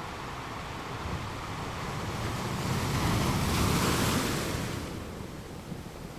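Sea waves washing on a shore: one wave swells over a few seconds, peaks with a rushing hiss a little past the middle, and then recedes.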